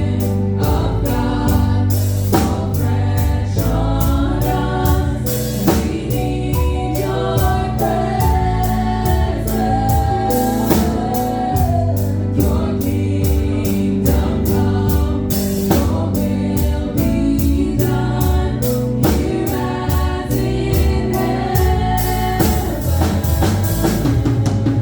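Live gospel praise music: voices singing together over a band with a steady drum-kit beat and bass.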